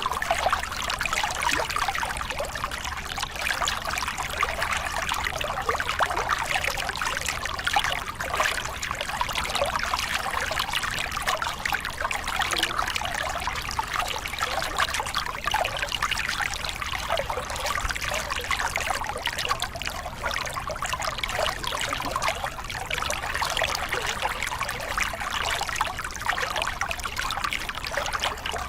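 Small river cascade: water pouring and splashing over rocks, a steady babbling rush.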